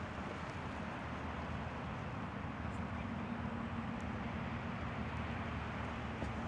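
Steady hum of passing road traffic, with a low engine drone that swells in the middle.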